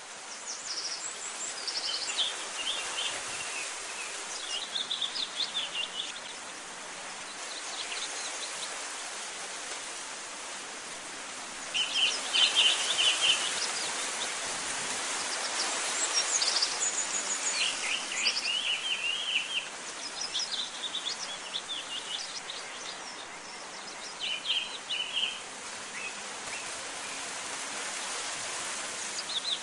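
Small birds chirping and singing in quick trills, a burst every few seconds, over a steady outdoor hiss.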